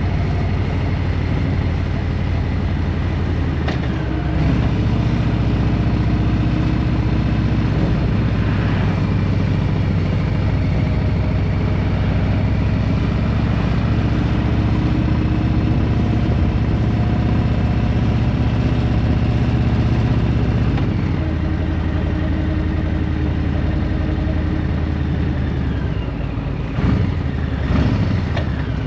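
Engine and road noise of a moving vehicle, the engine note shifting as it changes speed or gear a few seconds in and again about two-thirds of the way through, with a couple of short knocks near the end.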